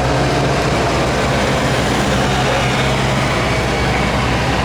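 Engine of a modified pulling lawn tractor running loud and steady, a low even hum without revving.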